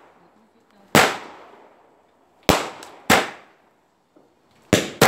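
Fireworks going off at close range: a string of sharp, loud bangs at uneven intervals of about a second, each trailing away quickly.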